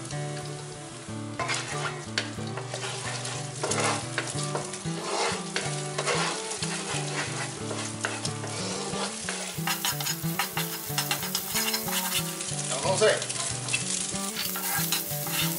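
Beaten eggs poured into hot oil in a wok, sizzling as they fry, then scrambled with a wooden spatula that scrapes and clicks against the wok in quick repeated strokes. Chopped onion is stirred in near the end.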